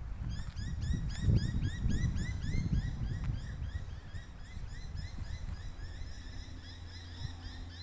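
A bird calling in a quick run of short rising chirps, about four a second, over low wind or handling rumble.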